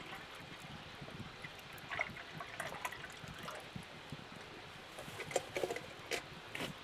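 Water trickling and dripping, with irregular clusters of small drops and splashes over a steady wash.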